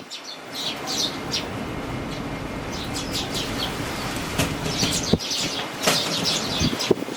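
Fledgling sparrows chirping in clusters of short, high cheeps, over a steady rush of strong wind.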